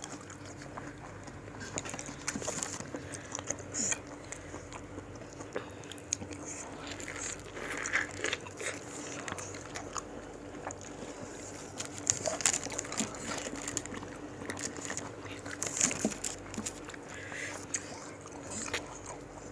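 Two people biting and chewing pieces of raw fruit and cucumber dipped in rujak sambal, a thick peanut-chili sauce. Wet mouth sounds are broken by crisp crunches now and then, with the busiest bursts about 8, 12 and 16 seconds in.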